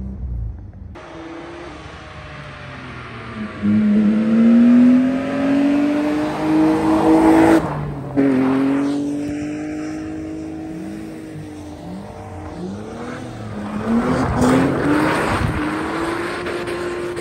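Car engines revving hard while drifting on snow: the pitch climbs and holds high in several long pulls, with a sudden break about eight seconds in, over a hiss of tyres and spraying snow.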